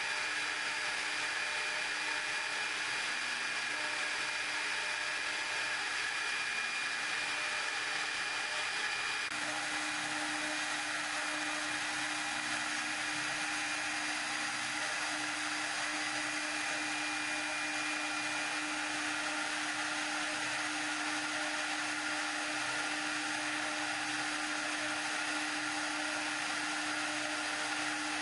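Small CNC milling machine for wedding rings running, a high-speed spindle and its motors giving a steady whine over a hiss. About nine seconds in the pitch shifts and a lower hum joins, then runs on steadily.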